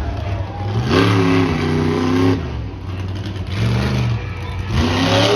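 Monster truck engine revving in about three rising surges, loud and echoing through the arena.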